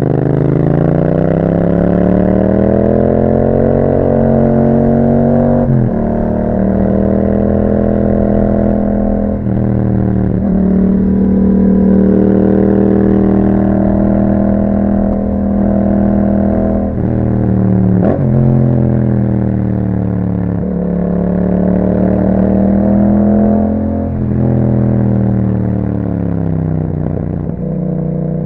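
Yamaha MT-07's parallel-twin engine through an Akrapovic exhaust with a dB killer, pulling through the gears: the note climbs and falls again and again, breaking sharply in pitch at each gear change, about seven times.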